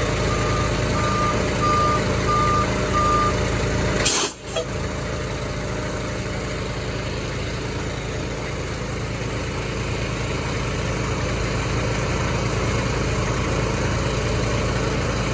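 PackRat delivery truck's engine running steadily while its reversing alarm beeps about every 0.7 s for the first three seconds. About four seconds in there is a sharp click and a momentary dropout, then the engine runs on steadily.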